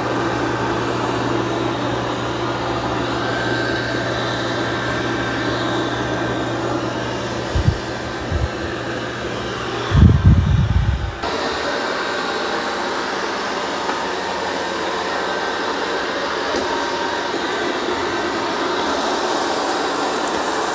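Dreame X30 Ultra robot vacuum-mop running steadily on its second mopping pass, a constant whir from its suction fan over a low hum. About ten seconds in there is a short low sound, after which the low hum drops out and the whir carries on alone.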